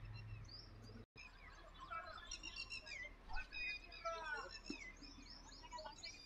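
Several birds chirping and calling in quick short notes around the ground, faint, with the sound cutting out for an instant about a second in.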